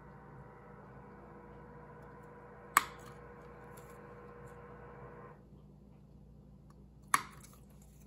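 Two sharp single clicks about four seconds apart, over a faint steady hum that stops a little after halfway.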